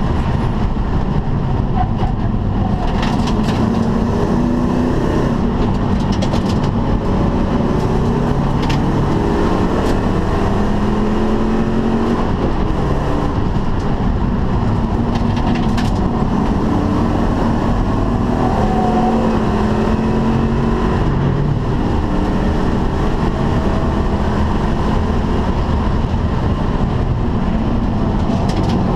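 Ford Mustang GT California Special's V8 heard from inside the cabin under hard track driving, the revs climbing and dropping back repeatedly as it accelerates, shifts and lifts for corners, over road and wind noise.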